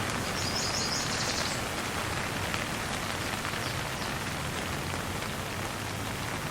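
Steady light rain falling as an even hiss, with a brief run of high chirps about half a second in.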